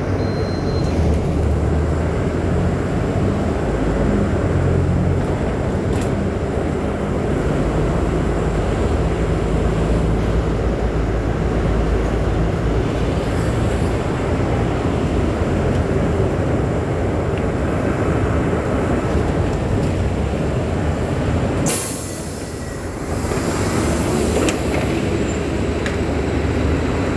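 Scania city bus running and driving, a steady low engine note under road and body noise. About 22 seconds in comes a short sharp hiss of compressed air from the bus's pneumatics.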